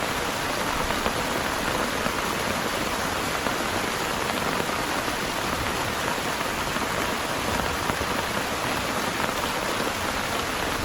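Heavy rain falling steadily, a constant even hiss of drops on surfaces.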